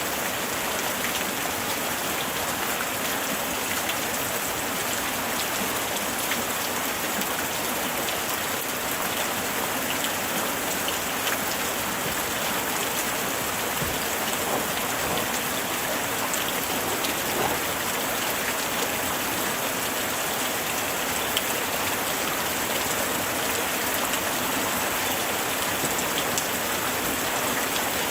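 Light rain falling steadily, an even hiss with scattered individual drops ticking on surfaces.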